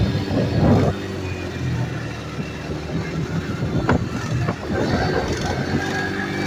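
Small off-road vehicle engine running steadily at a low idle-like speed, with a few louder rough bursts near the start and again around four to five seconds in.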